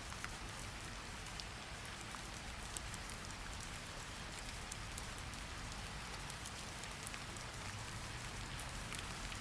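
Steady rain falling, with many small individual drops ticking sharply over an even hiss.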